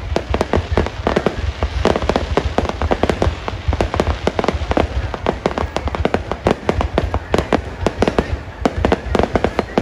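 Fireworks display: a rapid, continuous barrage of bangs, several a second, over a deep rumble.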